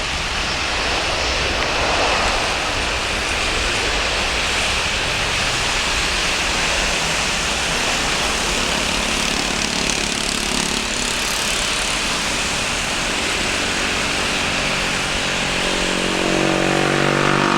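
Boeing 737-300 jet engines running with a steady, loud roar. Near the end a pitched, tone-like sound joins in.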